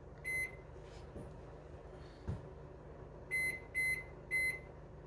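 Commercial Chef countertop microwave's control panel beeping as its clock is set again after a power cut: four short, identical high beeps, one just after the start and three about half a second apart near the end. A faint soft knock comes in between.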